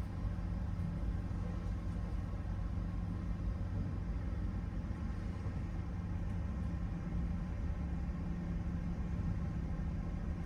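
Steady low rumble and hum inside a passenger train carriage.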